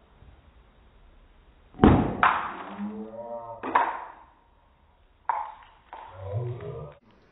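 A sharp pop about two seconds in as the lid blows off a black film canister loaded with Alka-Seltzer, baking soda, vinegar and soda water, the gas pressure bursting it. Voices cry out right after and again later on.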